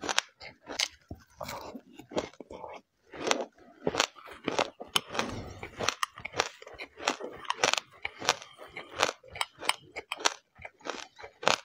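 Crisp crunching as a mouthful of mixed seeds is chewed close to the microphone: sharp, irregular crunches several times a second.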